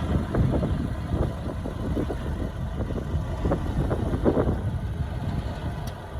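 Heavy construction machinery running, a diesel engine's steady low sound with scattered short knocks and clatter through it.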